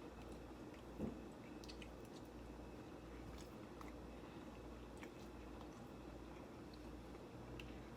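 Faint chewing of a mouthful of pasta, with small wet mouth clicks and a soft knock about a second in, over a steady low hum.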